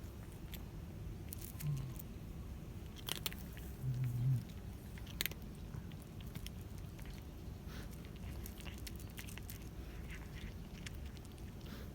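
Cat chewing and crunching food, with irregular small crisp crunches. A brief low hum sounds twice, the louder one about four seconds in.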